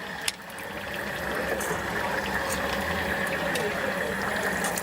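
Stinky tofu deep-frying in hot oil: a steady bubbling hiss with scattered small crackles that grows over the first second, with a sharp click a third of a second in, over a steady hum.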